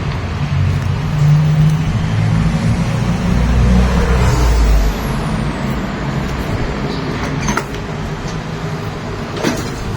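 A vehicle's low engine rumble and road noise, easing off about five seconds in, with two sharp knocks near the end.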